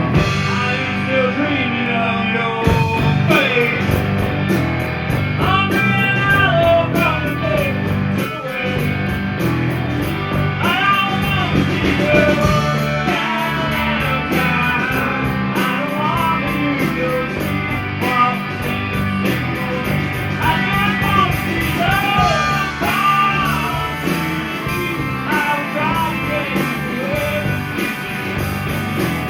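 Live rock band playing a song: electric guitar with bending, wavering melody lines over a steady bass and drum beat.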